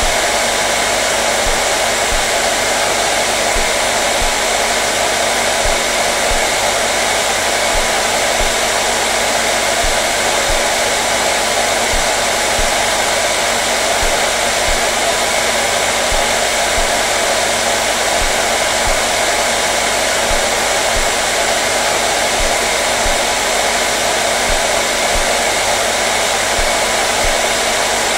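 Hair dryer running continuously at a constant speed: a steady, unchanging rush of air with a low motor hum underneath.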